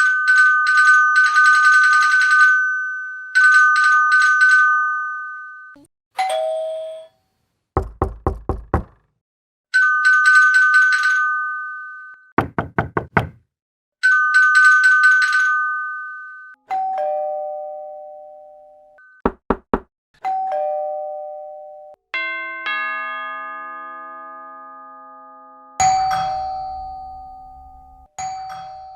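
A run of doorbell and door-knock sounds. Three bursts of a fast trilling two-tone ring alternate with two-note ding-dong doorbell chimes and quick bursts of knocking on a door, about five knocks each. From about 22 seconds in, a longer multi-note doorbell chime plays.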